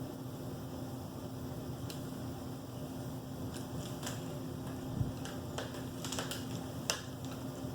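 Baby cockatiel feeding from a hand-feeding syringe or spoon: a scattering of short, faint clicks and squeaks, with a low bump about five seconds in, over a steady background hum.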